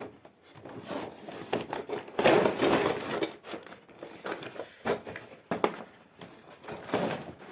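Toy vehicles being handled, with irregular rustling, crinkling and light knocks, loudest about two to three seconds in.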